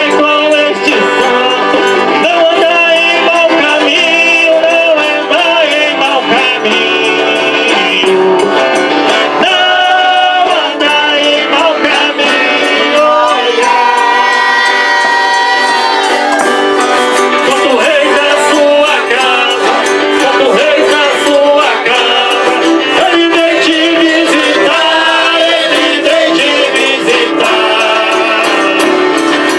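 Folia de Reis folk music: men's voices singing over an eight-bass button accordion and guitar, with a tambourine keeping a steady beat.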